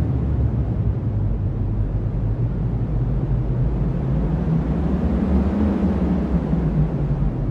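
Strong cyclone wind: a steady, low rumble with no sharp sounds in it.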